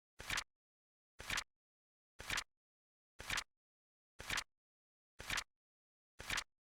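Flip clock sound effect: a short, sharp double click, a light tap and then a louder flap, repeating once a second with silence between.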